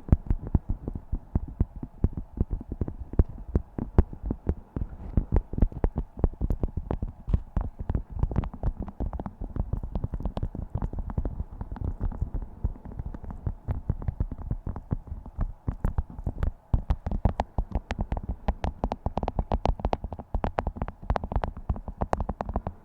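Beeswax food wrap being crinkled and handled: a dense, uneven run of crackles and taps.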